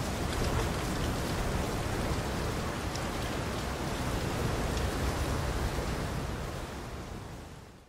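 Steady rain falling on water: a dense, even hiss with a few separate drops ticking through it. It fades out over the last two seconds.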